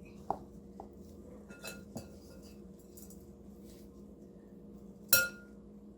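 A few light clicks and clinks of hard kitchenware being handled, with one loud, sharp clink that rings briefly about five seconds in.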